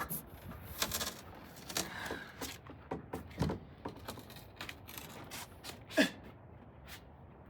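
Faint rubbing, scraping and clicking of car interior parts being handled and pulled loose, with one short sound about six seconds in that slides down in pitch.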